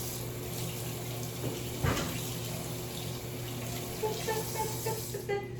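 Kitchen tap running into a sink, a steady rush of water, with a single knock about two seconds in.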